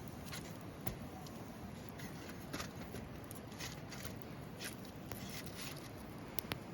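Wood campfire burning, with irregular crackles and small pops over a steady low hiss.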